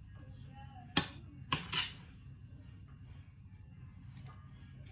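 A few sharp knocks of a kitchen knife on a chopping board, once about a second in and twice more soon after, over a low steady hum.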